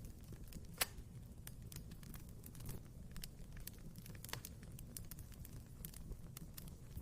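Wood fire crackling in a fireplace: frequent small snaps and pops over a low rumble of the flames, with a sharper pop about a second in.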